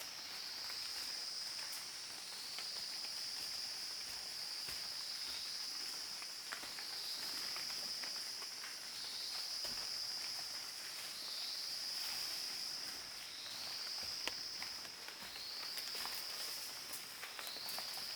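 A high, steady insect drone that dips and swells again about every two seconds, over faint scattered ticks and rustles.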